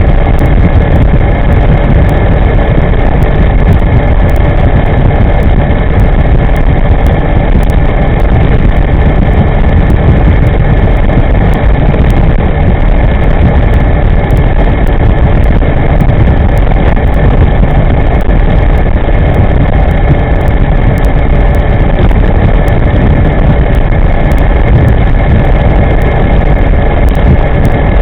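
Loud, steady wind rumble on the microphone of an electric scooter riding at speed, with a thin steady whine on top.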